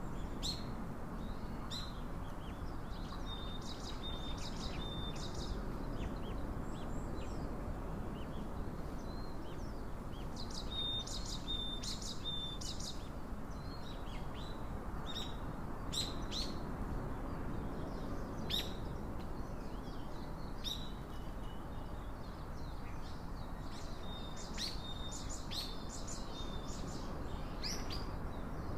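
Small birds calling: scattered short, high chips and twittering calls, bunched in a few brief flurries, over a steady low background hiss.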